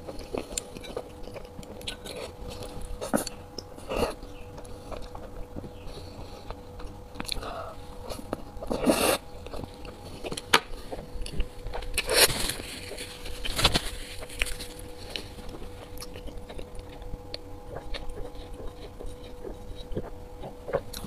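A person chewing a mouthful of soft, sauce-coated food close to the microphone: wet mouth clicks throughout, with a few louder smacks about nine, twelve and fourteen seconds in. A faint steady hum lies underneath.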